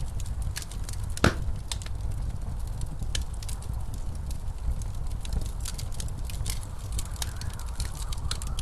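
Wood fire crackling, with irregular sharp pops and one louder pop about a second in, over a steady low rumble of snowstorm wind.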